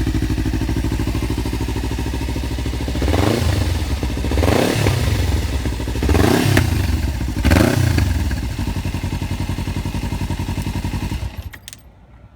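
Kawasaki Ninja 300's parallel-twin engine running through a Leo Vince GP Corsa slip-on muffler. It idles, is revved four times in quick blips, and settles back to idle. The engine cuts off about eleven seconds in, followed by a couple of light clicks.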